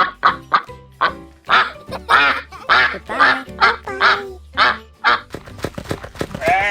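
Duck quacking over and over: quick short quacks at first, then longer drawn-out quacks. The quacking stops about five seconds in.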